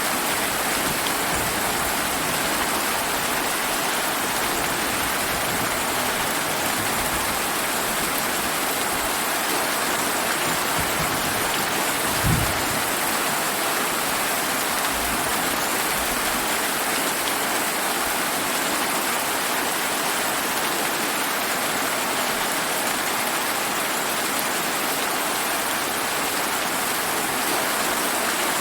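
Steady rain falling, an even dense hiss of drops, with one brief low thud about twelve seconds in.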